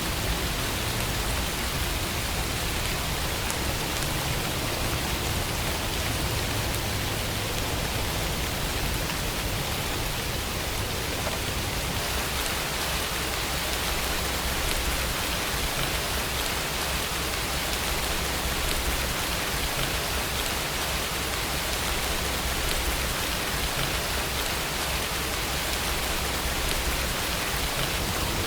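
Steady rainfall: an even hiss of rain with the patter of drops on a surface.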